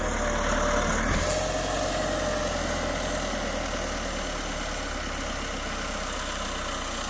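Tractor's diesel engine running steadily at low revs, with a faint wavering whine over it.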